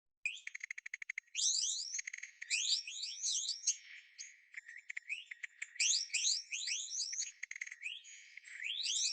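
Bird calls starting abruptly a moment in: first a fast ticking trill, then runs of quick, high chirps that sweep upward, over and over.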